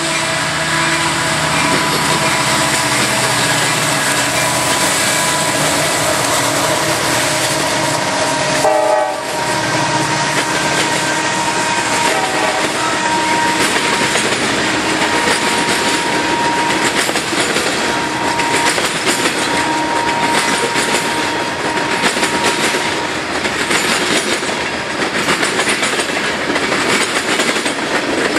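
Freight train passing close by: the diesel locomotives go by first, then a long string of hopper and tank cars rolls past with a steady rhythmic clatter of wheels over the rail joints.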